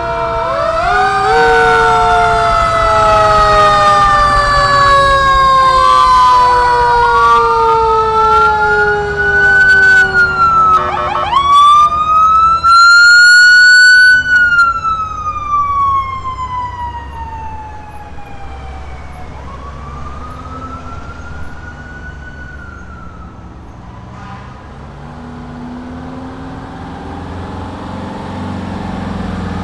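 Fire engine sirens, several at once, rising and falling, with one slowly winding down in pitch. They are loudest about halfway through, then fade to one quieter siren over the low rumble of truck engines.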